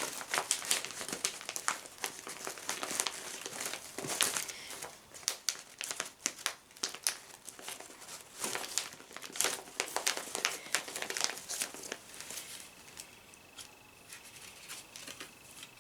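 Crinkling and rustling of gift packaging being handled, in a string of sharp crackles that thin out over the last few seconds.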